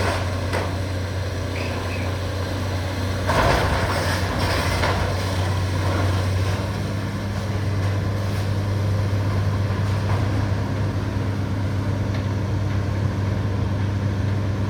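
Caterpillar demolition excavator's diesel engine running steadily, with a burst of crashing and scraping rubble about three seconds in.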